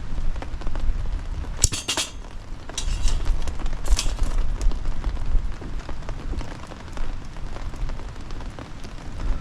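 Rain falling steadily with a low rumble of wind on the microphone, and a few brief metallic clinks of camp gear being handled, about two and four seconds in.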